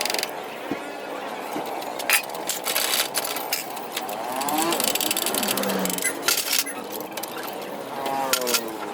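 Short metallic clicks and clinks of hand tools, typical of a motorcycle engine being taken apart, with indistinct voices in the background.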